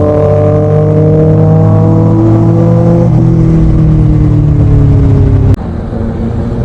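Motorcycle engine running under way, its pitch climbing slowly, changing step about three seconds in and then easing down. A sharp click and sudden drop in level about five and a half seconds in.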